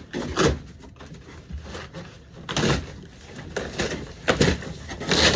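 Cardboard and styrofoam packaging of a boxed clothes dryer being pulled and torn open by hand, in a series of separate scraping, rustling bursts.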